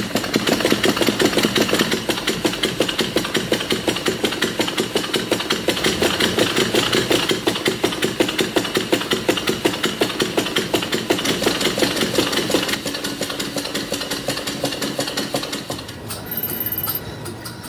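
Small model engine running with a rapid, even beat of about four to five strokes a second, going quieter near the end, with a brief high tone just before the end.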